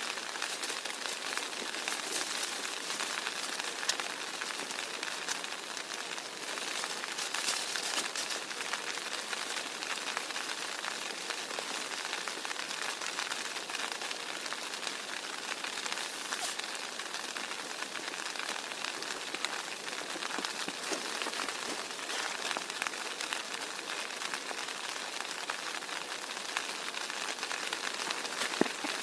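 Heavy rain falling steadily, a dense patter of drops with scattered sharper ticks and one louder tick near the end.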